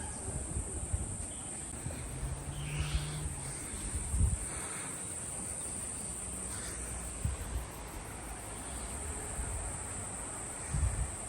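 Rainforest insects droning steadily on one high pitch, with a few faint calls about three seconds in and occasional low thumps of wind or handling on the microphone.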